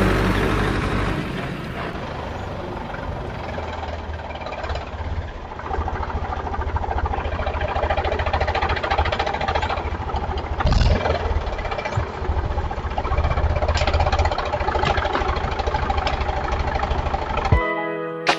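An engine running at a steady low rumble, with a few sharp knocks around the middle. A plucked guitar tune starts near the end.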